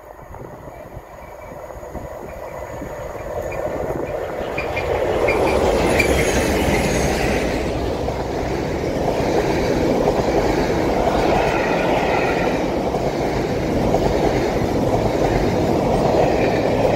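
Locomotive-hauled passenger train approaching and passing close by. It grows louder over the first five seconds or so, then holds a steady rumble and clatter of coach wheels on the rails.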